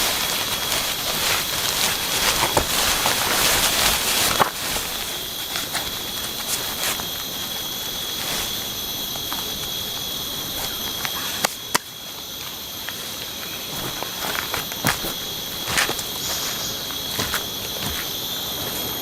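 Rain falling steadily until about four seconds in, when it gives way abruptly to the steady high-pitched chirring of forest insects. Scattered sharp clicks and drips sound throughout.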